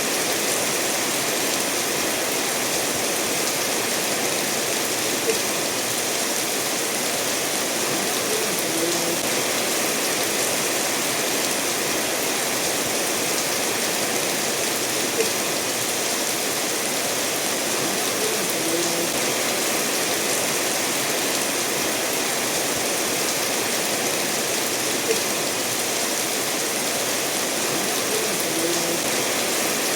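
Steady rainfall mixed with a stream running over stones, an even rushing hiss. Three short sharp ticks stand out, about ten seconds apart.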